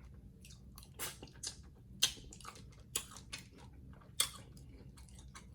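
Close-miked chewing with wet mouth smacks and clicks, the loudest about a second apart, as a mouthful of seafood-boil food is eaten.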